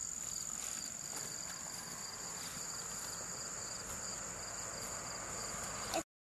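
A chorus of crickets and other insects: a steady high trill, with a second, pulsing trill just below it. The sound cuts off abruptly near the end.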